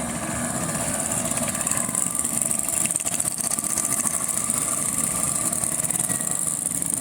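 Classic motorcycle engine running steadily at idle, with a fast, even pulsing.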